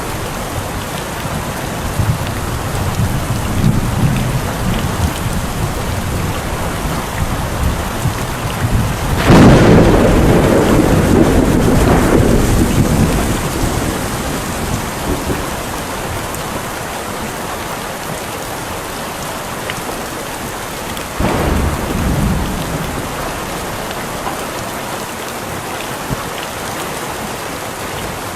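Steady heavy rain with thunder: a loud thunderclap about nine seconds in that rumbles on for several seconds, and a second, weaker crack later on.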